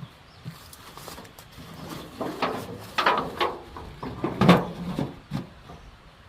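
A run of wooden knocks and scrapes as a wooden beehive box and its lid are handled, the loudest knock about four and a half seconds in.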